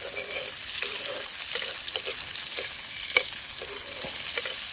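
Sliced onions and dried red chillies frying in hot oil in a metal kadhai, with a steady sizzle. A metal ladle stirs them, scraping against the pan, with one sharper clink about three seconds in.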